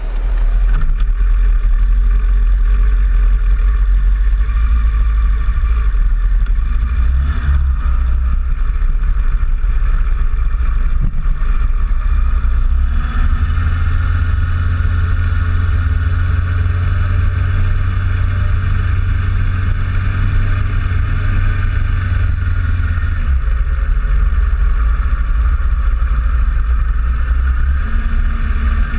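Motorcycle running at road speed, a steady loud engine and road noise; the engine note shifts up about 13 seconds in and settles back about 23 seconds in.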